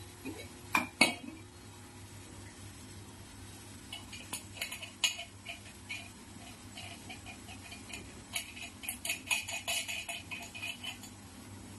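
Light metallic clinks and taps, as of a small brass path light fixture and its glass lens being handled: two about a second in, a few more around four to five seconds, then a quick run of them from about eight to eleven seconds.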